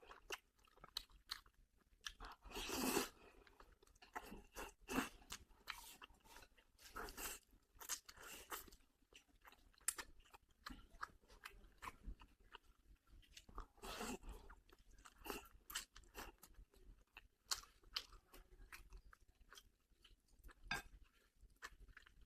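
A person chewing food close to the microphone, with many short, irregular clicks and mouth smacks.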